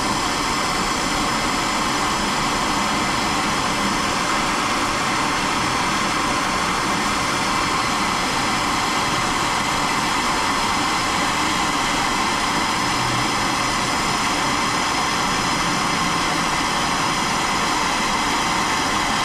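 Steady rushing hiss with a faint whine from the heating tool warming the spade tip of a plastic-welding kit, holding at one level throughout.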